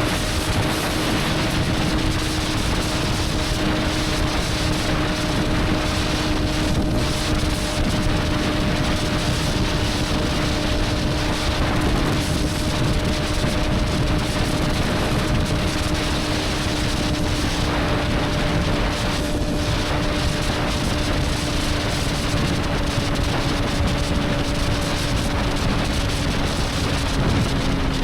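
Motorcycle engine running at a steady cruise, its note holding pitch and easing down slightly near the end, under heavy wind rush on the microphone.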